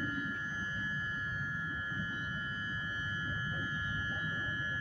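Steady high-pitched electrical whine over a low rumble, unchanging throughout: an electric commuter train standing at the platform with its equipment running.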